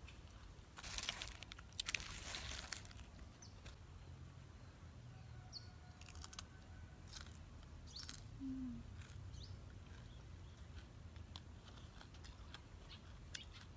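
Crunching and chewing of raw vegetables and greens, with the loudest bites about one and two seconds in and softer chewing clicks after. A few faint bird chirps.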